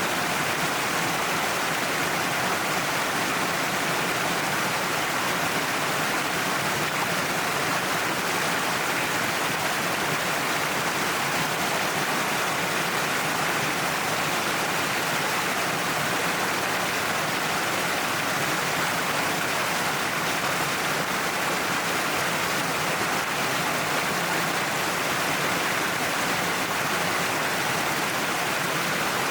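Cliffside waterfall: a steady, even rush of falling water.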